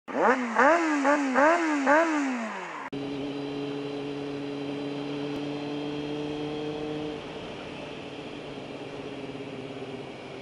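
A 2001 Triumph TT600's 599 cc inline-four engine is revved in about five quick throttle blips, each pitch sweeping up and falling back. At about three seconds the sound cuts to the same bike cruising at a steady engine speed with wind and road noise, easing off a little at about seven seconds.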